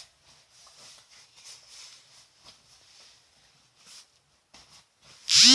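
Faint, uneven snoring and snuffling breaths of a sleeping chihuahua. Near the end a loud, voice-like call with rising then falling pitch starts.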